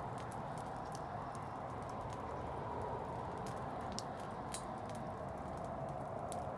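Wood fire crackling: a steady rushing hiss with irregular sharp pops, several stronger ones coming close together about halfway through.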